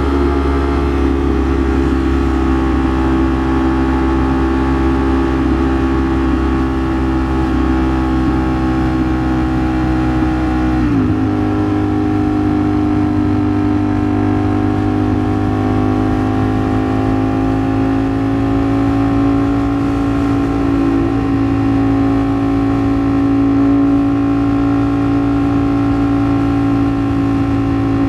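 Ducati Streetfighter V4S V4 engine running at steady highway speed. Its pitch dips briefly about eleven seconds in, then climbs slowly.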